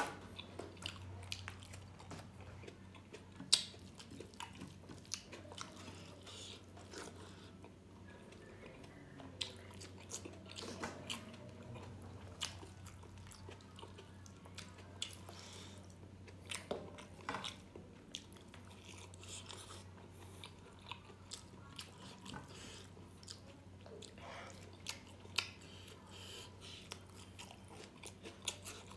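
Close-miked chewing and mouth sounds of someone eating rice and pork gravy by hand: a run of short wet smacks and clicks, with a steady low hum underneath.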